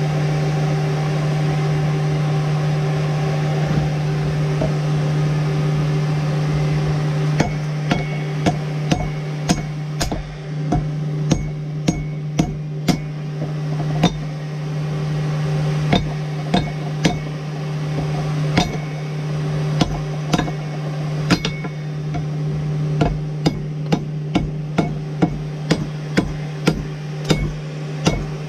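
A blacksmith's hammer striking the steel of a wrench being forged into a tomahawk head: sharp, ringing blows that begin several seconds in and come in quick runs of a few strikes with short pauses. Under them a steady low machine hum runs throughout.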